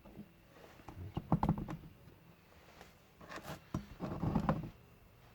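Parts and their packaging being handled: two spells of rustling with light knocks and clicks, one about a second in and another past the three-second mark.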